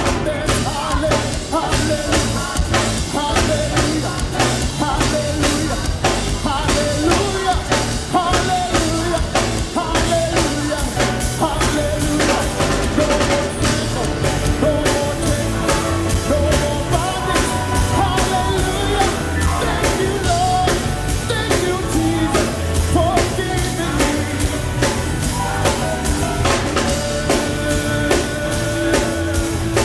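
Live worship band playing a song: a drum kit keeping a steady beat under bass, other instruments and singing.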